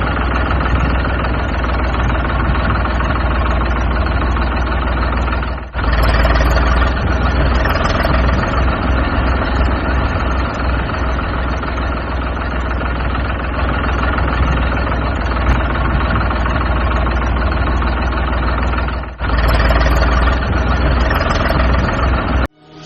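Tractor engine running steadily at a low idle-like pace. The sound breaks off for a moment twice, about six seconds in and again near twenty seconds, then stops just before the end.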